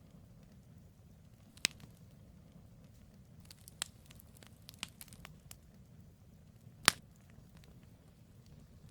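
Campfire logs burning, giving scattered sharp pops and crackles: a loud pop about a second and a half in, a few softer crackles in the middle, and the loudest pop about seven seconds in. A low steady rumble runs underneath.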